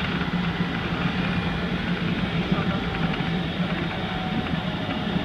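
Keikyu 2100-series electric train running along the line, heard from the front of the train: a steady rumble of wheels on rails with a constant low hum.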